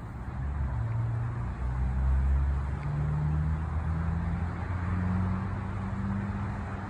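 A motor vehicle engine running nearby, a low hum that shifts and climbs slowly in pitch, over a steady wash of road traffic noise.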